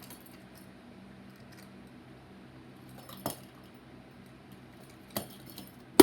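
Three sharp, short clicks or taps a second or two apart, the last one the loudest near the end, over a faint steady hum.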